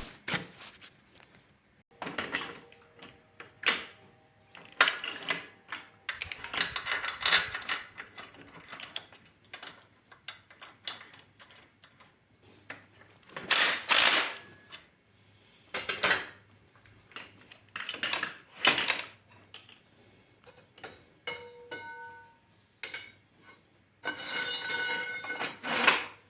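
Intermittent clinks, knocks and clatter of steel parts and hand tools being handled and fitted, in short separate bursts with quiet between; a few pieces ring briefly after being struck.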